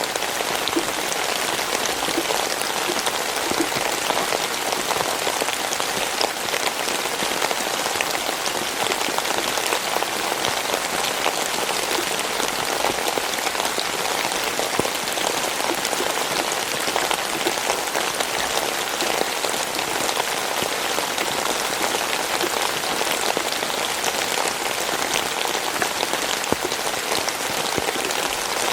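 Steady rain: a dense, even hiss of falling drops, with individual drop hits ticking through it.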